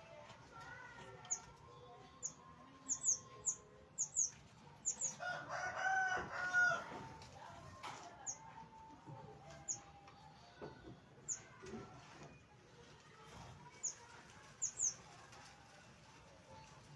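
Small caged birds chirping: many short, very high chirps scattered throughout, some in quick pairs, with a louder, lower call lasting about two seconds around five to seven seconds in.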